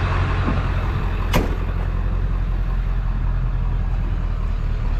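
Truck engine running steadily with road noise while driving, with a single sharp click about a second and a half in.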